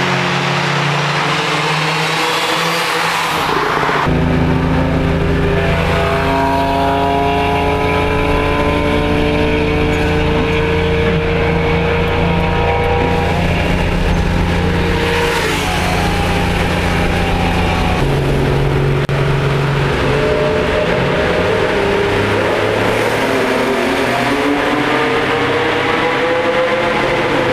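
Porsche 930 Turbo's turbocharged air-cooled flat-six engine running hard under acceleration, its note climbing slowly through long pulls. The sound changes abruptly twice, as separate passes are joined.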